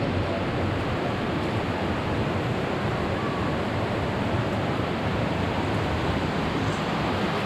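Steady rush of flowing water from a creek and waterfall in a rocky gorge, an even roar with no breaks.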